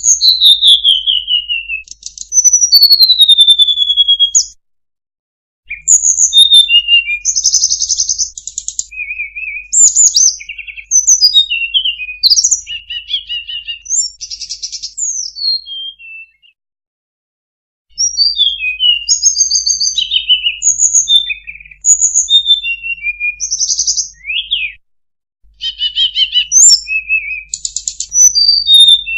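Recorded song of a hill blue flycatcher (sulingan/tledekan) played as a bird-trapping lure: loud phrases of high whistled notes with rising and falling glides and quick trills, broken by pauses of a second or two.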